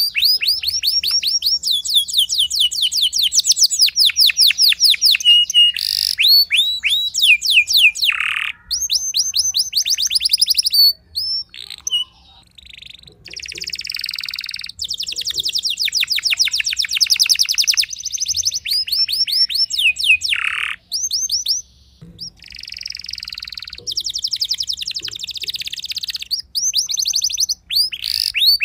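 Domestic canary singing a long, loud song of fast trills: rows of quick, high, downward-sweeping notes, with short breaks about twelve and twenty-two seconds in.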